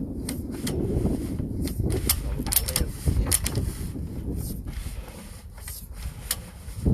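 Sewer inspection camera's push cable being worked through the drain pipe: irregular clicks and knocks over a steady low rumble.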